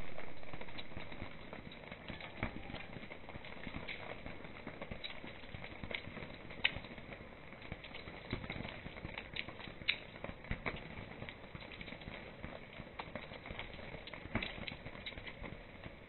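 Rain falling: a steady hiss with many irregular sharp drip taps of drops landing on a tarp and on a wet tiled floor. It is louder for the first second or two, then settles.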